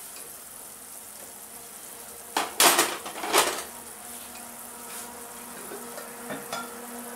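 Spinach and tomato masala sizzling in a steel kadai over a gas flame, with two loud metal clatters a little before halfway through as the steel lid is set down.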